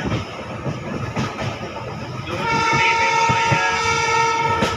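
Train running along the track with rumbling and wheel clacks, then about halfway through a train horn sounds one steady blast for about two seconds and cuts off sharply near the end.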